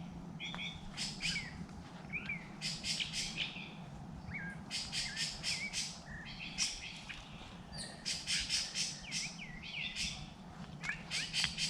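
Forest birds calling: repeated short chirps in quick clusters and curling whistled notes, over a faint steady low hum.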